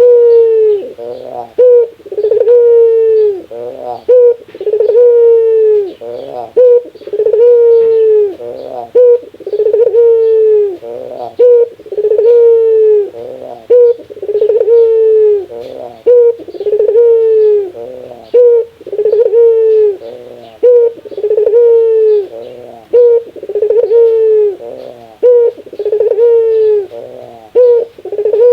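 Barbary dove (burung puter) giving its rare 'laughing' call: a repeated phrase of quick stuttering notes running into a long falling coo, about every two and a half seconds.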